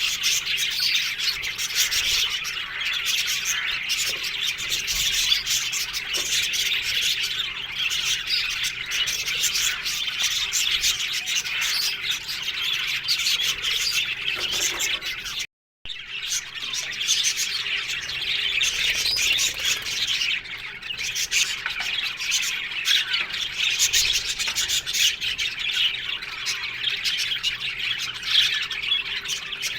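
A colony of budgerigars chattering together: a dense, continuous mass of chirps, warbles and squawks. It cuts out for a split second about halfway through.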